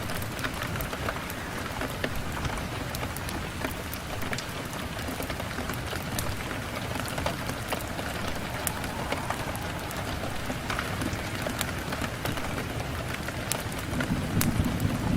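Steady rain falling on a window, with many scattered sharp ticks of drops. A deeper, louder rumble swells in near the end.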